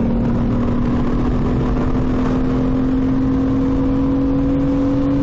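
1999 Pontiac Grand Am SE's 3.4-litre V6 at full throttle under hard acceleration, its pitch climbing slowly and steadily, over a steady rush of noise.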